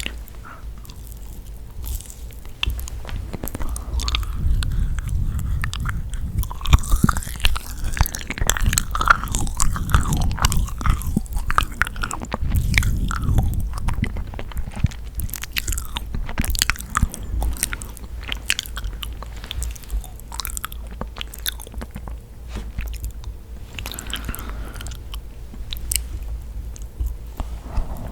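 Close-miked eating of yakgwa, a sticky honey-soaked Korean fried pastry: bites and wet, sticky chewing with many small clicks and crunches.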